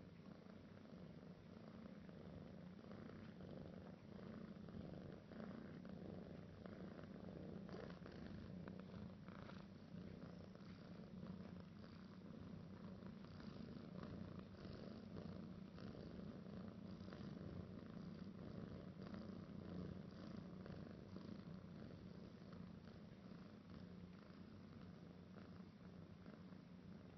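Kitten purring, faint and steady.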